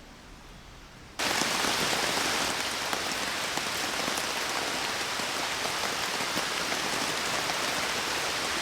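Heavy rain coming down hard, a dense steady hiss with many small drop ticks, cutting in suddenly about a second in after a quieter start.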